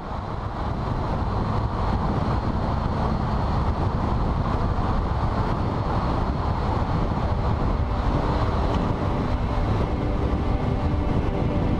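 BMW K75 motorcycle on the move: its three-cylinder engine running steadily under the rush of wind, fading in at the start.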